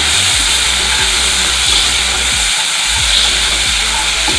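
Garlic paste and dried red chilli sizzling steadily in hot oil in a non-stick kadai, stirred with a spatula.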